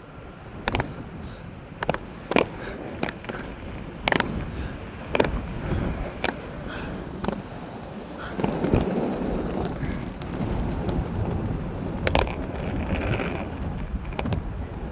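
Roller skate wheels rolling over pavement: a steady rumble broken by sharp clacks about once a second. The rumble grows louder about eight seconds in.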